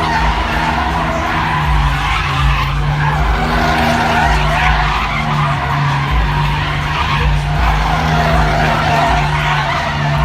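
Car tires screeching continuously against pavement over a running engine, as in a burnout or drifting.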